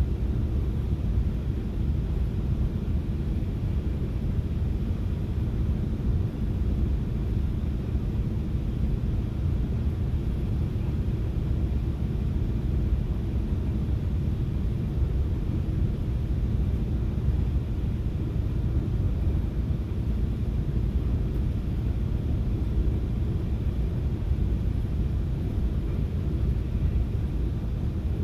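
Steady low rumble of a FrontRunner commuter train in motion, heard from inside the passenger car.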